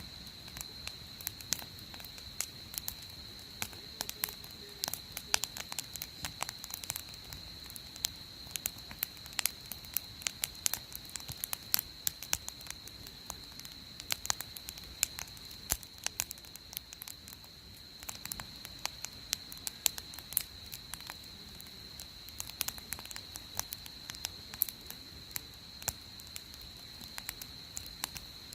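Wood campfire crackling, with irregular sharp pops and snaps throughout, over a steady faint high-pitched tone.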